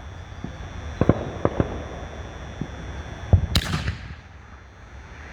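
A 6-inch canister firework shell going off: a few faint clicks, then the heavy launch thump from its mortar tube about three and a half seconds in, with a sharp crack that fades quickly.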